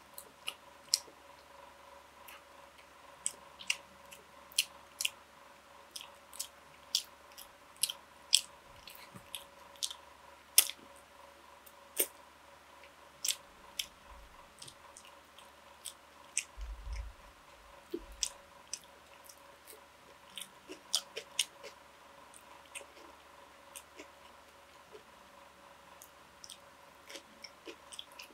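Close-miked chewing of food, with many sharp crunches and mouth clicks at an irregular pace, over a faint steady hum.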